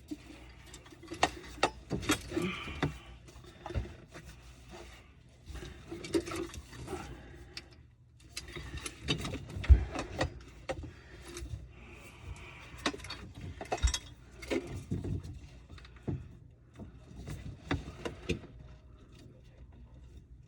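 Irregular clicks, knocks and rattles from drain pipe fittings and tools being handled under a kitchen sink, with a couple of louder thuds about ten and fourteen seconds in.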